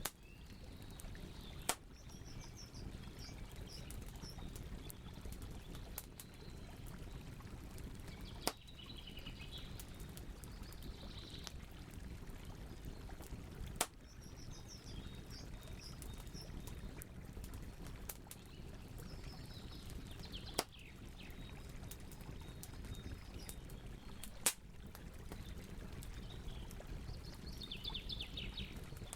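Campfire crackling over a low steady rumble of burning wood, with five sharp loud pops spaced a few seconds apart. Small birds chirp in short series of high notes every few seconds.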